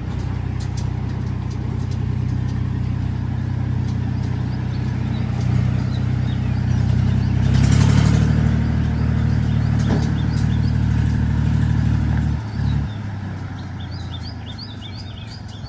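Powertrac 439 tractor's diesel engine running steadily, swelling louder around the middle, then dropping away abruptly about three quarters through. Birds chirp faintly near the end.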